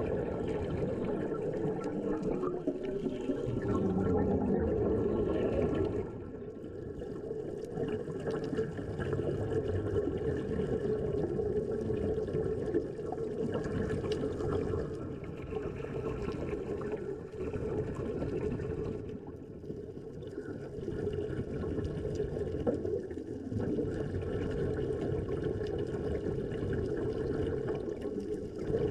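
Steady, muffled water noise as heard underwater, a little louder for the first few seconds.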